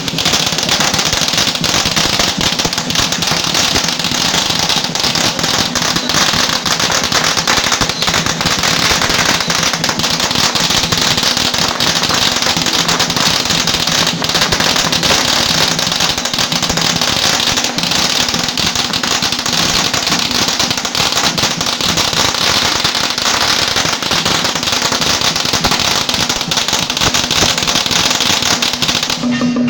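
A long string of firecrackers going off, a dense, unbroken crackle of rapid sharp bangs that lasts about half a minute.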